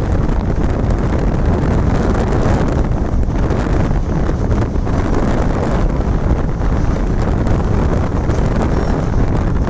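Wind buffeting a microphone held out of a moving passenger train, over the steady running noise of the train on the track.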